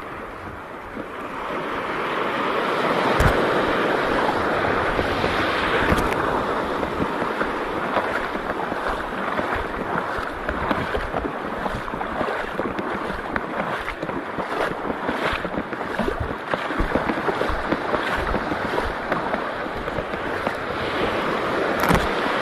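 Seawater sloshing and surging at the shore, a steady rushing noise with irregular splashes, and wind buffeting the microphone.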